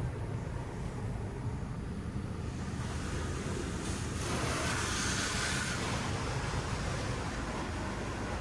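Touchless in-bay car wash running, heard as a steady low hum. A hiss of water spray builds about three seconds in, is loudest around the middle, then eases off as the spray passes over the car.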